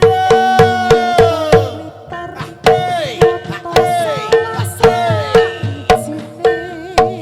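Live Javanese barongan accompaniment music: kendang hand-drum strokes and a steady pulsing beat about three times a second, under a loud melody whose notes bend downward in pitch.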